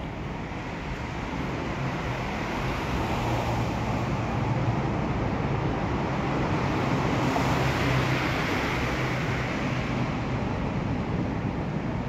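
Train running: a steady rumble and rush with a low hum. It grows louder toward the middle and eases slightly near the end.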